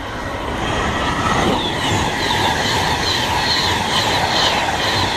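Virgin Trains Class 390 Pendolino electric train running along the platform. Its rumble grows louder, and from about a second and a half in the wheels give repeated high-pitched squeals.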